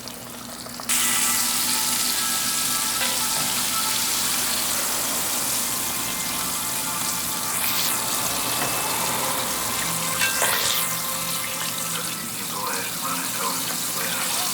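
Flour-coated chicken breastbones deep-frying in hot oil: a steady, loud sizzle that starts abruptly about a second in.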